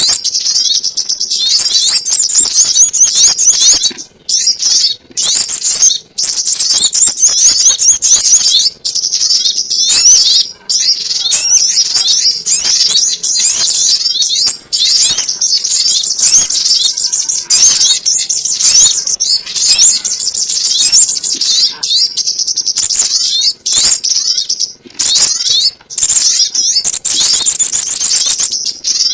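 Sogon ontong (sunbird) calls played as a trapping lure: a dense run of rapid, high-pitched chirps and twitters, broken by a few short pauses.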